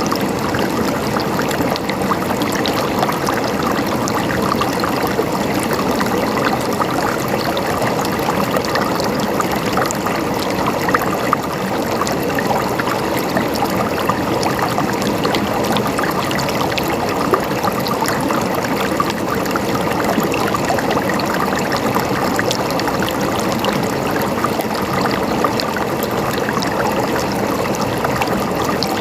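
Running water gurgling and splashing in a steady, unbroken flow, dense with small splashes.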